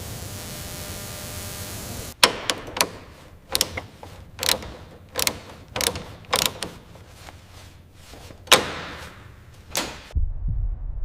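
A steady hiss for about two seconds, then a string of about a dozen sharp mechanical clicks and knocks at uneven intervals, some ringing briefly, stopping abruptly near the end.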